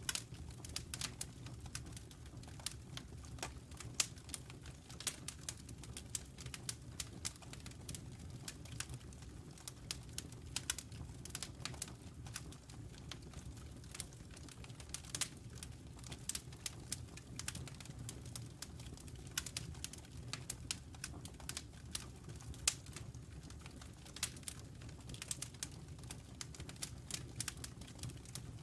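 Burning logs crackling in a fireplace: frequent irregular sharp pops and snaps over a low, steady rumble of the flames.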